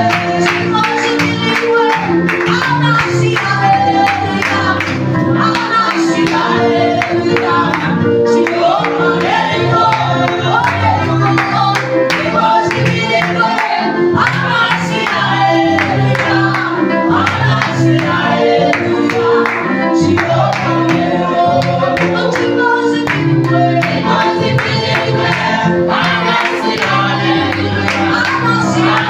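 Gospel praise-and-worship music: a group of singers with a backing band, over a steady beat.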